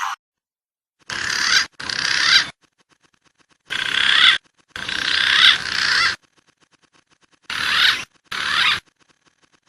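Wild pigeon calls from a bird-lure recording, in three pairs of short high calls, each half a second to a second and a half long, cut off abruptly with dead silence between.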